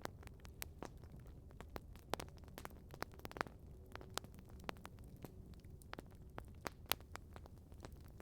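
Wood campfire crackling: irregular sharp pops and snaps over a faint low rumble, a few of them louder, around two seconds in and near the end.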